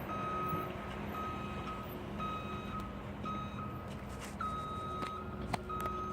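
Construction truck's reversing alarm beeping repeatedly, about one beep a second, over a steady low hum. A single sharp click comes about five and a half seconds in.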